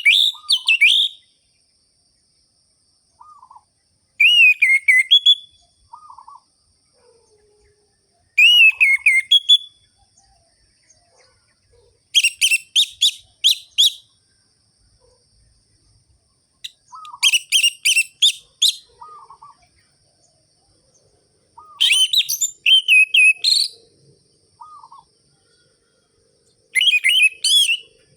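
Orange-headed thrush (anis merah) in full, vigorous 'gacor' song. It sings seven loud whistled phrases about four to five seconds apart, each lasting a second or two and made of quick notes that sweep up and down. Soft, short, lower notes fall between the phrases.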